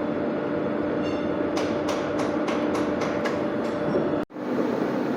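Steady mechanical hum with a run of about seven light clicks in the middle, as the metal bracket is worked onto the door-handle frame. The sound drops out for a moment near the end.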